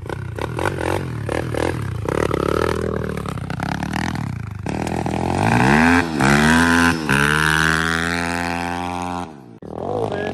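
SDG 190cc pit bike's single-cylinder four-stroke engine revved up and down several times, then held at high revs before cutting off suddenly about 9 seconds in. It is running cleanly now that its tall air-intake snorkel has been shortened.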